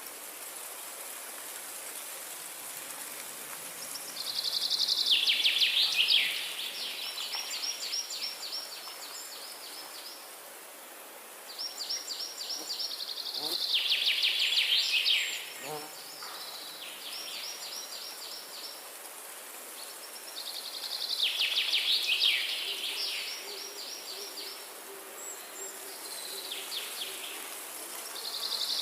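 A songbird singing the same short phrase over and over, about every eight seconds: a fast run of notes that drops in pitch. Under it runs a steady high hiss of forest ambience.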